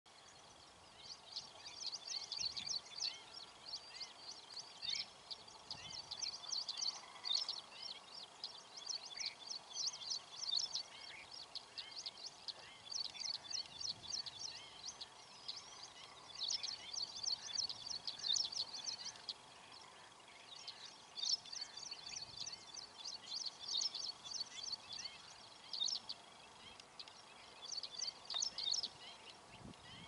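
Small birds chirping and trilling rapidly and high-pitched, in repeated bouts of a second or two, with short falling notes mixed in, over a faint background hiss.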